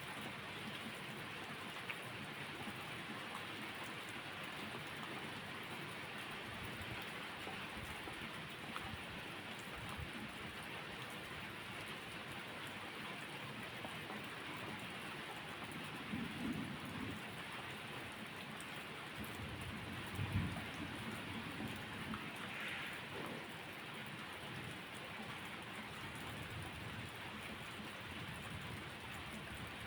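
Steady rain falling, with two low rumbles of thunder past the middle: one about sixteen seconds in and a louder one a few seconds later.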